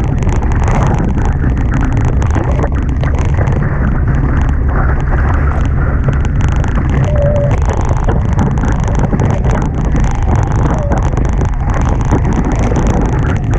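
Heavy wind buffeting the microphone over the rush of water past the hull of a Hobie Tiger catamaran sailing at speed in strong wind. It is a loud, steady roar of noise throughout, with no letup.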